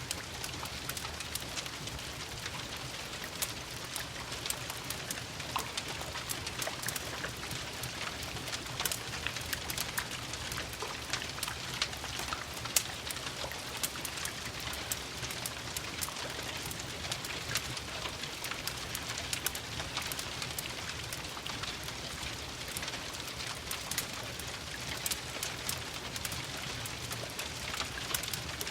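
Steady rain mixed with the scattered pops and crackles of a wood fire in a fireplace.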